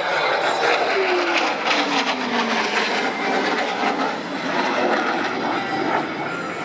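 Jet aircraft engine noise, a loud steady rumble and hiss, with a tone falling in pitch between about one and two and a half seconds in.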